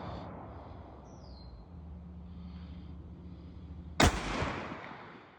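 A single rifle shot from a CVA 350 Legend about four seconds in, sharp and loud, its report echoing and fading over about a second.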